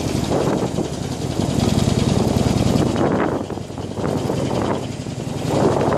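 Harley-Davidson Iron 883N's air-cooled V-twin engine running as the motorcycle is ridden, its level dipping briefly twice in the second half.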